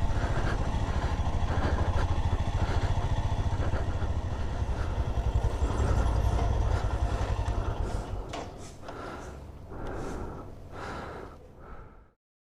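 Motorcycle engine idling with a steady low pulse. About eight seconds in it drops away to quieter, scattered sounds, and everything cuts off abruptly near the end.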